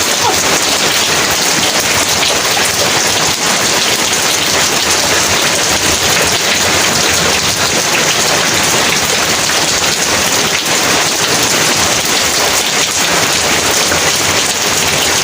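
Heavy rain pouring steadily, a dense, even hiss of drops on surfaces.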